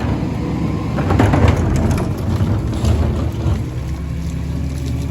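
Garbage truck's diesel engine running with a heavy low rumble, with scattered knocks and clatter about one to two seconds in.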